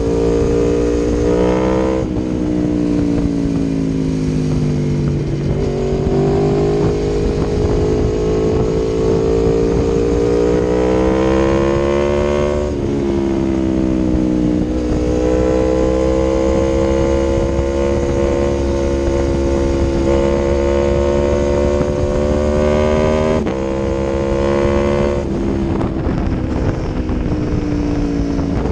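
2018 Aprilia Tuono V4 1100 Factory's V4 engine through an Akrapovic exhaust, ridden under throttle. Its pitch climbs steadily and then drops sharply several times over the stretch.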